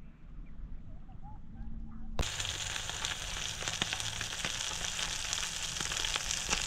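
Food frying in a pan, a steady sizzle full of small crackles that starts suddenly about two seconds in.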